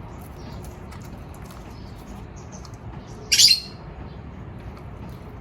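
A single short, harsh bird call about three seconds in, over a steady low background hum.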